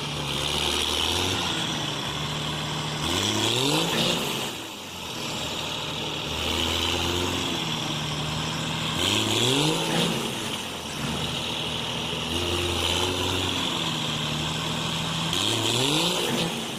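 A vehicle engine running steadily and revving up in a rising sweep three times, roughly every six seconds.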